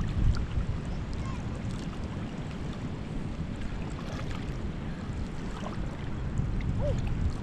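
Wind rumbling on the microphone, with faint water sounds and small scattered clicks.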